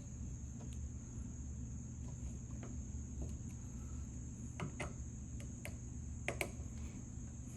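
Scattered light clicks and taps of a screwdriver working on a stubborn screw in an old metal ratchet, several close together near the end, over a steady background hum.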